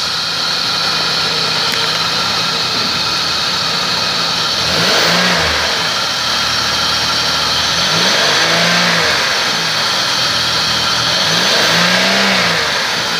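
2004 Chevrolet Impala's high-mileage V6 engine (about 229,000 miles) idling just after starting, revved three times: about five seconds in, again near nine seconds and near twelve, each time rising and falling back to idle.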